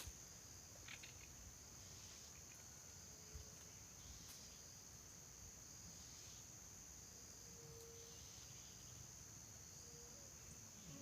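Faint, steady high-pitched insect trilling, typical of crickets, with a few faint short calls in the background.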